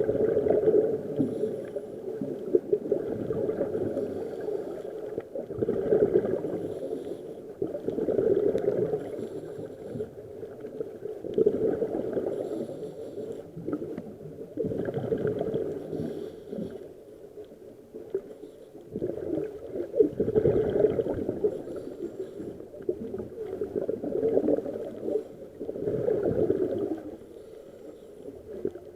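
Scuba regulator exhaust bubbles gurgling underwater in bursts every few seconds, one burst with each exhalation of a diver breathing through the regulator.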